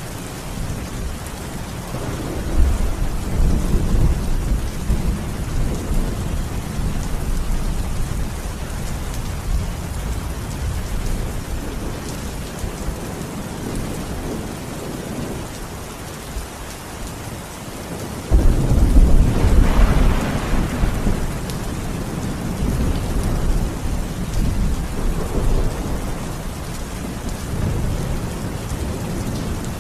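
Steady heavy rain with rolling thunder: a rumble swells about two seconds in, and a louder thunderclap breaks suddenly about two-thirds of the way through, rumbling on for several seconds.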